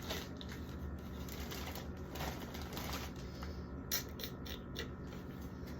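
Faint handling sounds of condiment bottles and jars being moved in a refrigerator door: a few light knocks and clicks over a steady low hum.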